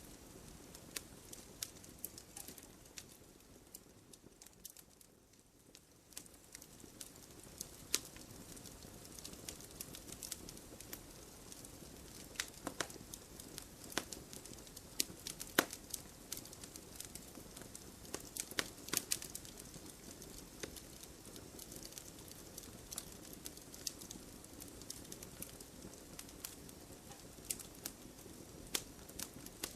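Logs burning in a wood fireplace: irregular sharp crackles and pops over a low steady hiss of the flames, thinning out briefly about five seconds in.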